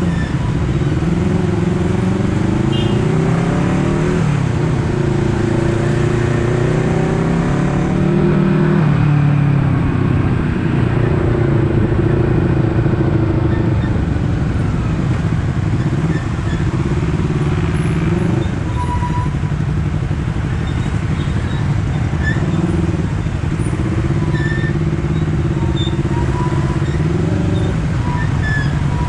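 Honda CBR250RR's parallel-twin engine under way, accelerating with its pitch climbing and then dropping back at each gear change, several times over.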